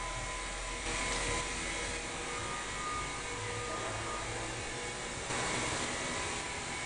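Steady rushing noise with a few faint steady tones in it, stepping up slightly in level about a second in and again a little past five seconds.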